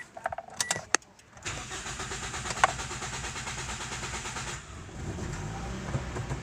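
Toyota Vios car engine turning over and starting, then running on its new fuel pump after a no-start caused by a failed pump; a few sharp clicks come in the first second before the engine starts, and its noise eases a little near the end.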